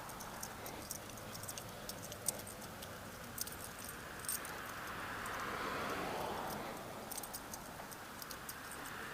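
Small metal pieces jingling in quick, irregular clinks while walking, typical of a dog's collar tags or a keyring. A broad rushing noise swells and fades about halfway through.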